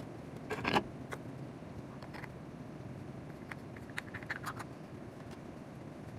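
Scattered clicks and light knocks of plastic table-fan parts being handled and fitted together during reassembly, the loudest knock just under a second in and a run of small clicks around four seconds, over steady low background noise.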